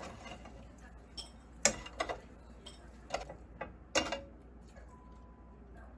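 A handful of sharp, light clicks and knocks, about six, scattered through the middle few seconds, like small hard objects being handled and set down.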